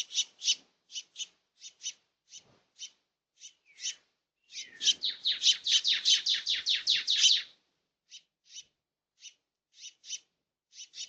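Small birds chirping: short sharp chirps, scattered at first, then a fast run of a dozen or more in quick succession about halfway through, then scattered single chirps again.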